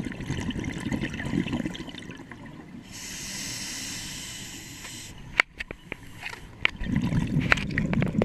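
Scuba diver breathing through a regulator underwater: bubbling exhaled air, a steady hissing inhalation about three seconds in, a few sharp clicks, then bubbling exhalation again near the end.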